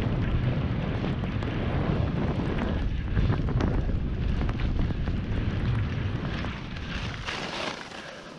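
Wind buffeting a GoPro microphone during a fast ski run through powder, a heavy rumble without pitch, with skis hissing over the snow. The rumble eases near the end, with a short hiss of snow as the skis slow.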